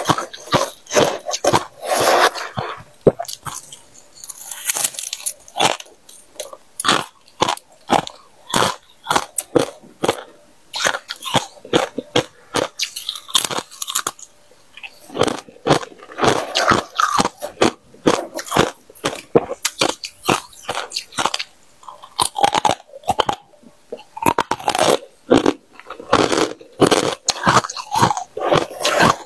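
Freezer frost being bitten and chewed close to the microphone: repeated crisp crunches in clusters, with short pauses between bites.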